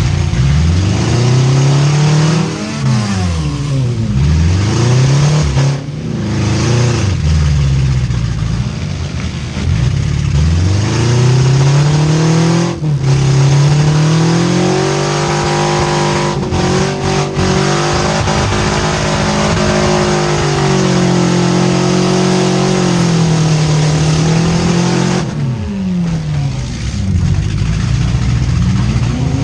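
Four-cylinder demolition derby car engines revving up and down over and over, their pitch rising and falling every second or two as the cars reverse and charge.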